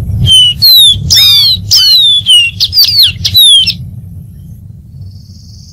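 Dark-throated seedeater singing a quick run of clear whistled notes, most of them sliding down in pitch, for about three and a half seconds. A low steady rumble runs underneath.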